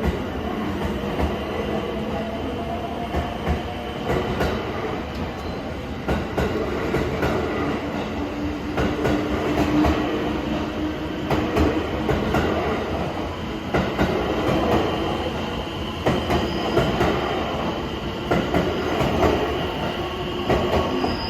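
Inside a JR limited express electric train under way: a steady rumble of the running gear with wheels clicking over rail joints and a few sustained tones over it.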